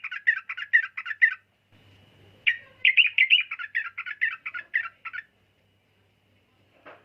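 Yellow-vented bulbul (trucukan) singing two phrases of quick bubbly chattering notes. The second phrase starts about two and a half seconds in, after a short pause.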